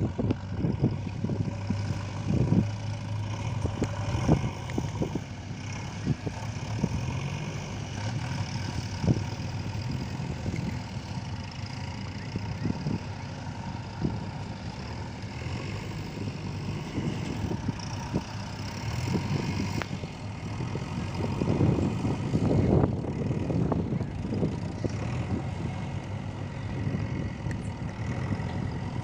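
JCB 3DX backhoe loader's diesel engine running steadily, with scattered knocks and clanks; it grows louder and rougher for a few seconds about three-quarters of the way through.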